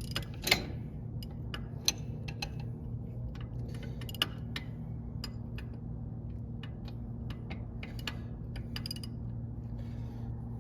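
Hand tools clicking and clinking on metal brake parts in irregular, scattered strikes, over a steady low hum.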